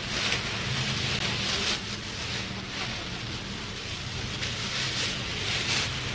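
Steady rain falling, a dense even hiss, over a low steady hum.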